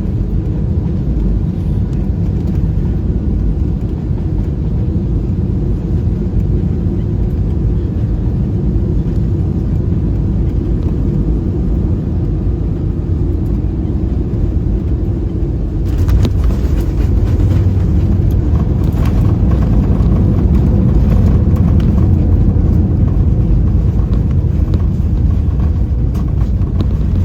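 Airbus A320 cabin noise heard from a window seat: a steady low rumble of engines and airflow. About sixteen seconds in it grows louder, with rattling and thuds through the cabin, as the aircraft touches down and rolls out on the runway.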